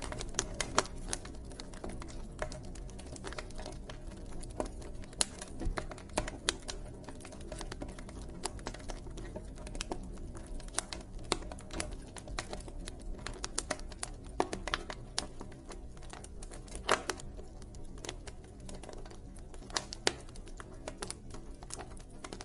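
Campfire burning, with wood crackling and popping in irregular sharp snaps, a few of them louder, over a steady low rumble of the flames.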